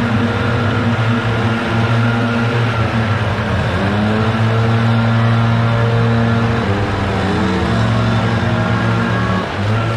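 Gasoline engines of leaf-cleanup equipment running steadily, their pitch shifting with short glides twice as the throttle changes.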